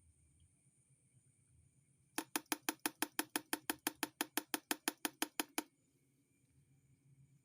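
A rapid, even series of about two dozen sharp knocks, roughly seven a second, starting about two seconds in and stopping abruptly after about three and a half seconds.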